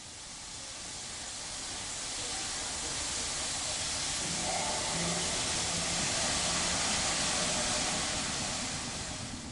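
Steam locomotive letting off steam: a steady hiss that swells over the first few seconds and eases off near the end, with a faint low hum beneath it.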